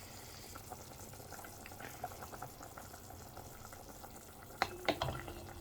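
A pot of soup boiling, a faint steady bubbling with small pops. Two sharp knocks sound close together near the end.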